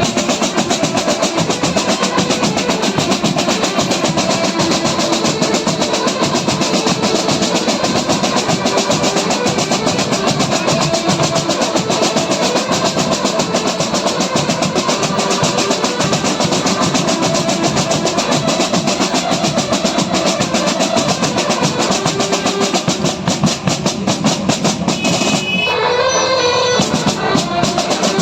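A band playing loud, fast, dense drumming under a pitched melody line. The melody comes forward more strongly near the end.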